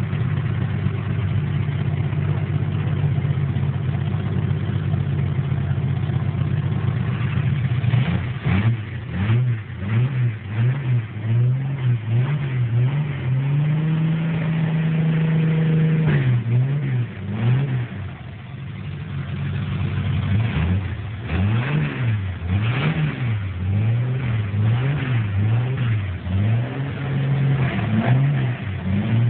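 Chevrolet Opala straight-six with six-throat carburettors and headers, idling steadily, then blipped over and over, held up briefly once about halfway through, then blipped again before settling back to idle near the end.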